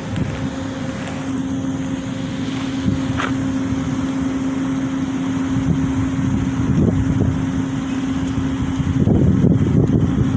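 A vehicle engine running with a steady hum over a low rumble; the rumble grows louder about nine seconds in.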